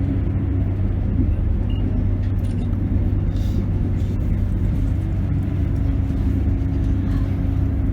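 A train's steady low rumble, with a faint hum that is clearer in the second half.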